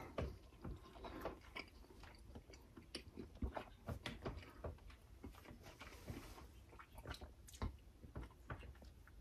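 A person chewing a mouthful of tender pheasant and noodles, heard close up as faint, irregular clicks and smacks of the mouth.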